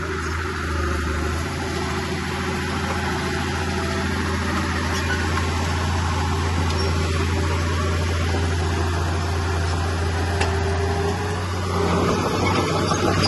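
Komatsu bulldozer's diesel engine running steadily with a deep drone, getting a little louder near the end.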